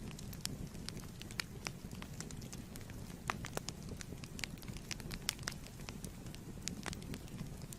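Wood fire crackling in a fireplace: a steady low roar of flame with frequent sharp, irregular pops and snaps.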